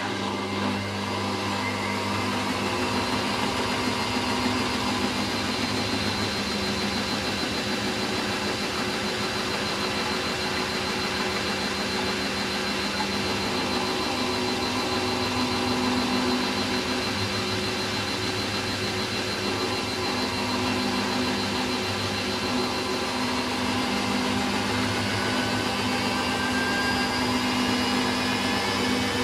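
Hoover DYN9144D3X washing machine on its final high-speed spin (about 1000 RPM): a steady rushing drum noise with a motor whine and low hum, the whine starting to rise in pitch near the end as the spin speeds up.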